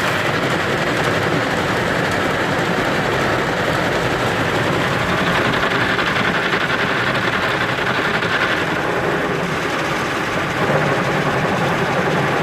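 Automatic car wash working over the car, heard from inside the cabin: a loud, steady rush of water spray and wash machinery against the bodywork.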